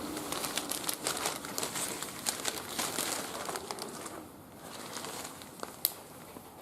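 Wood fire crackling in a barbecue grill: a quick run of sharp snaps that thins out about two-thirds of the way through, with one loud pop near the end.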